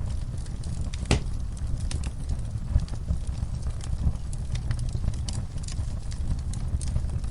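Wood fire crackling, with frequent sharp pops over a low rumble of the flames; one louder pop about a second in.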